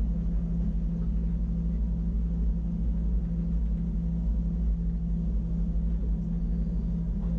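Wengernalpbahn electric rack-railway train running, heard from inside the carriage: a steady low hum with a droning tone over a rumble.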